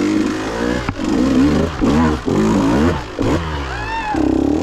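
KTM 150 dirt bike's two-stroke engine revved in short throttle bursts, about six in quick succession, its pitch rising and falling with each blip as the bike picks its way over rough ground.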